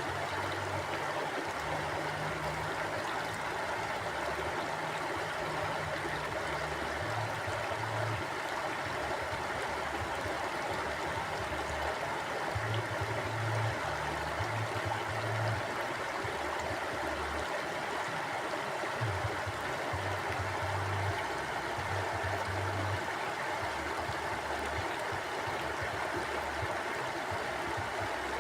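Mountain stream flowing steadily over rocks, a constant rush and gurgle of water with an uneven low rumble underneath.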